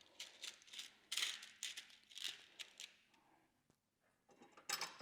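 Small metal hardware and hand tools clinking and rattling in short, irregular bursts while a nut is fastened on a foot-grip bolt, falling quiet after about three seconds before one more clink near the end.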